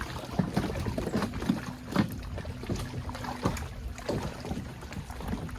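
Wind rumbling on the microphone out on the water, with irregular small knocks and clicks of gear being handled on a kayak.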